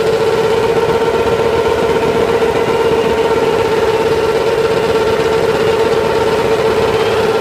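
Sportbike engine held at high revs at one steady pitch during a burnout, the rear tyre spinning in place.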